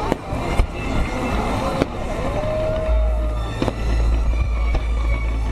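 Fireworks display: aerial shells bursting in a string of sharp bangs over a continuous low rumble.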